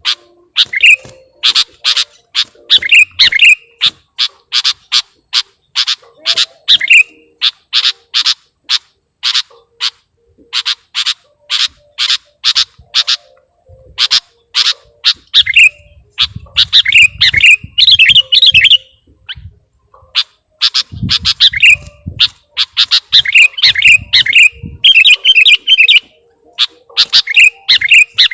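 Sooty-headed bulbul (kutilang) singing: a long run of sharp, repeated chip notes, two or three a second, broken now and then by short, fuller warbled phrases.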